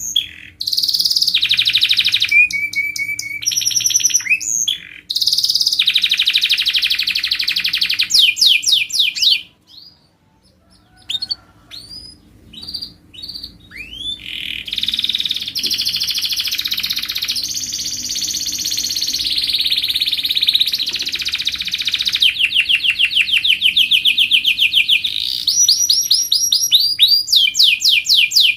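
Domestic canary singing: long runs of fast trills and repeated notes, changing tempo and pitch from phrase to phrase. About ten seconds in, the song breaks off for a few seconds with only scattered short notes, then resumes in long, unbroken trills.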